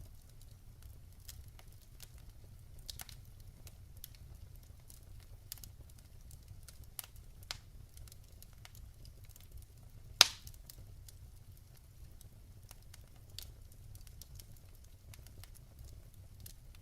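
Wood fire burning in a fireplace, crackling with scattered small pops and one loud sharp pop about ten seconds in, over a low steady rumble.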